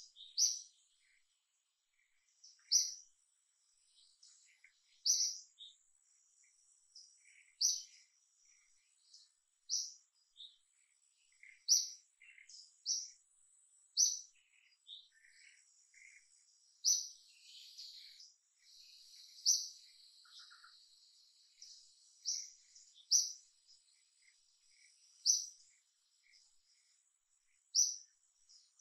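A wild bird chirping: short, high-pitched notes repeated every two to three seconds, with fainter calls in between.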